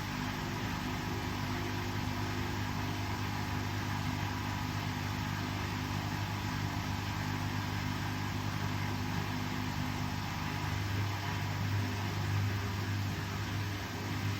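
Indesit Ecosense washing machine on an 800 rpm spin cycle: the motor and drum spin steadily with a low hum. The hum swells slightly near the end.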